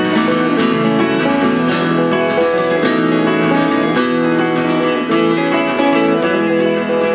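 Acoustic guitar playing an instrumental break in a folk song, quick picked notes over strummed chords, with no singing.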